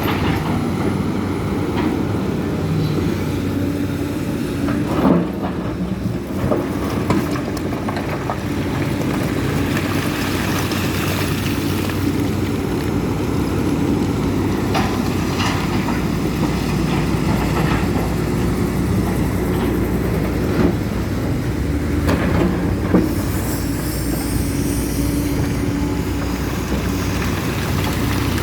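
Case CX300C excavator running steadily under working load, with a few sharp metallic clanks and knocks scattered through.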